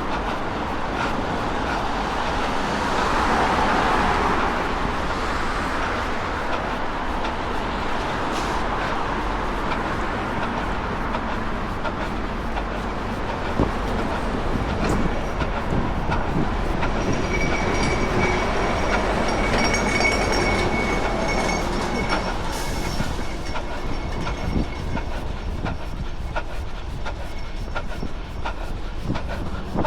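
A train passing, its wheels clattering on the rails, with a thin high whine in the middle of its pass, over steady wind noise.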